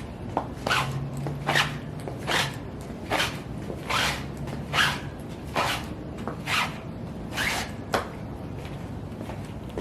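Footsteps in high heels at a steady stomping pace, about one step every 0.8 seconds, each a short crunchy strike. The steps stop near the end after a last sharp click.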